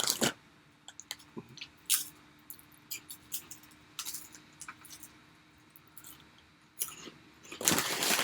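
A person chewing food, close to the microphone: scattered soft mouth clicks and small crunches. A louder burst of noise starts shortly before the end.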